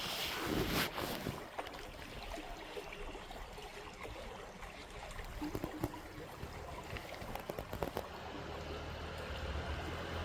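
Creek water running steadily, with scattered small clicks and a low rumble building near the end.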